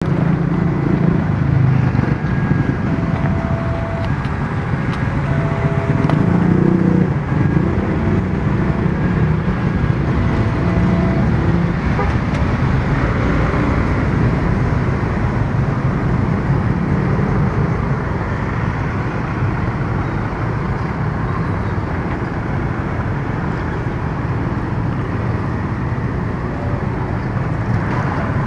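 Road traffic running at a railway level crossing. For the first ten seconds or so, a two-pitch warning tone beeps on and off, the pitches taking turns about once a second.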